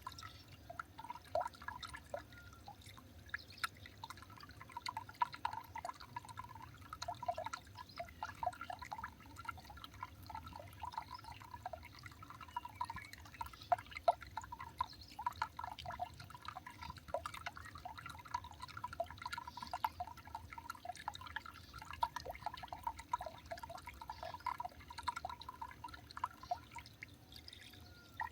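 Water dripping: a quick, irregular patter of drops, several a second, that keeps on steadily.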